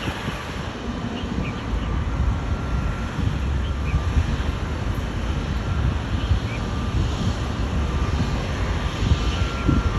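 Airbus A320neo jet airliner's engines, heard as a steady rumbling roar with a few faint whining tones.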